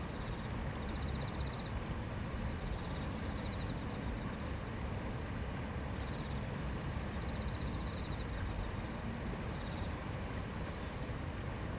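A shallow river babbling and rushing steadily over stones. A faint high, rapid trill comes and goes a few times above the water.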